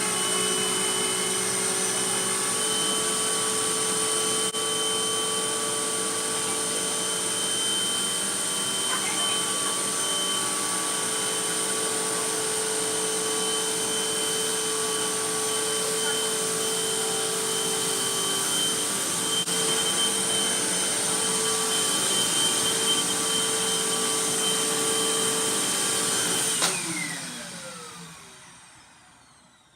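Hoover WindTunnel Max upright vacuum cleaner running steadily with a high whine. About 27 seconds in it is switched off and the motor winds down, its whine falling in pitch as it fades.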